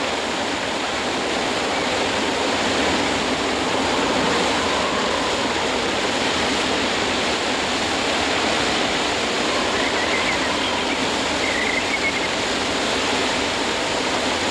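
Steady rushing noise of a waterfall's water blown back by strong onshore wind.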